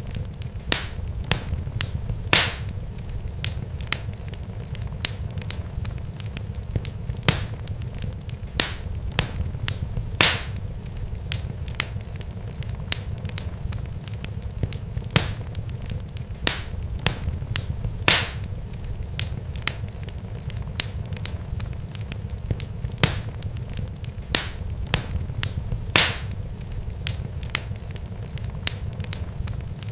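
Irregular sharp pops and crackles, several a second with a louder snap every few seconds, over a steady low rumble.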